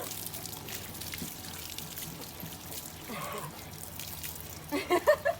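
Water pouring and trickling during a puppy's bath. Near the end a quick run of loud, short pitched sounds breaks in.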